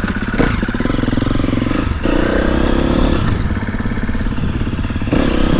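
Husqvarna FE 350 supermoto's single-cylinder four-stroke engine running on a moving bike, its note changing with the throttle about two seconds in and again near the end.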